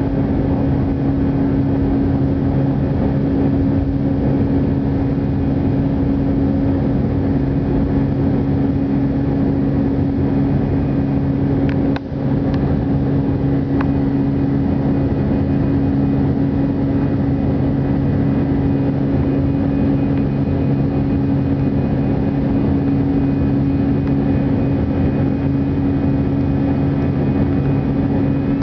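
Steady drone of an Airbus A319 airliner during its takeoff climb: jet engine noise and airflow with a constant low hum. There is one brief click and dip about twelve seconds in.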